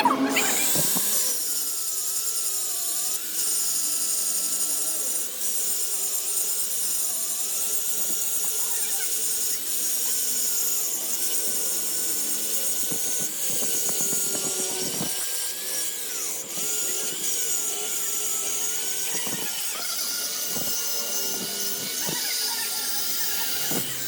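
A power tool running steadily against metal, a continuous high-pitched grinding noise with a wavering whine.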